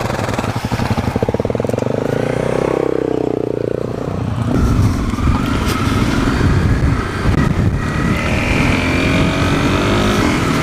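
Dual-sport motorcycle engine running and revving. Its pitch rises and falls about two to four seconds in, then climbs again near the end as the bike accelerates, over a rough low noise from about four seconds in.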